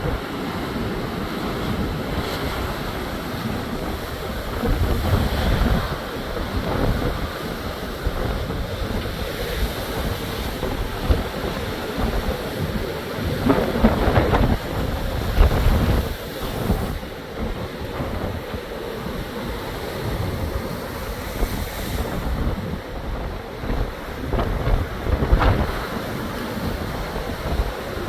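Waves breaking and washing in at high tide in a storm, with strong wind buffeting the microphone in gusts; the surf swells and falls back repeatedly.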